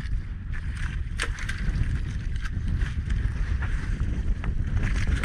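Low rumble of wind and sea on a small fishing boat, broken by scattered sharp clicks and knocks, the loudest about a second in.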